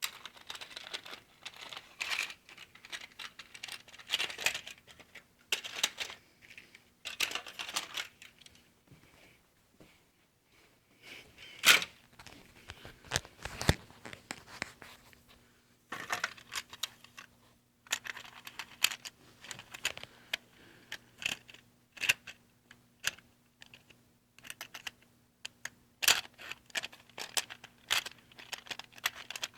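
HO scale model train running on the layout: irregular clicking and clattering from the wheels and cars over the track, with a faint steady hum underneath.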